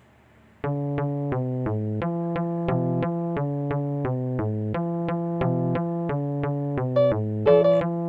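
Electronic keyboard playing wisisi dance music: a steady, repeating pattern of short bass-and-chord notes starts about half a second in, and a higher melody line joins near the end.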